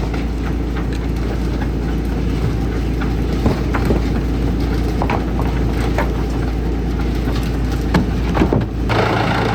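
Wood chipper's engine running steadily, with a few sharp knocks scattered through it. Near the end the engine note changes abruptly.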